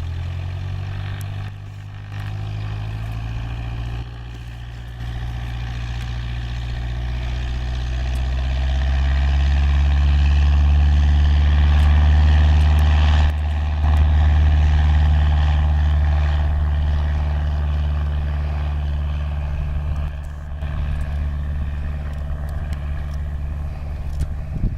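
Cessna 152's four-cylinder piston engine and propeller going to full power for takeoff, the pitch and loudness rising over the first several seconds, then holding a steady drone at full power.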